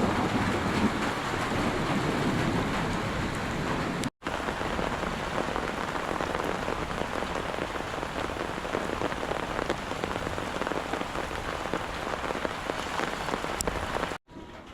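Steady rain falling, a dense even patter of many drops. It cuts out for an instant about four seconds in and again near the end, where it comes back quieter.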